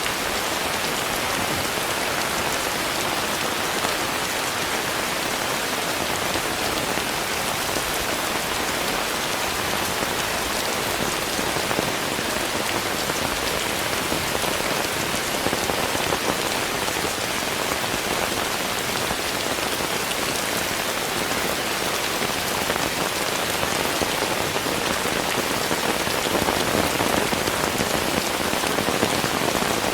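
Steady rain falling as a dense, even patter, growing a little louder near the end.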